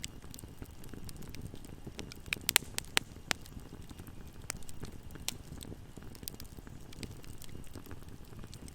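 Fire in a fireplace crackling: a steady low rumble of flames with scattered sharp pops and snaps, and a quick cluster of louder pops about two and a half to three and a half seconds in.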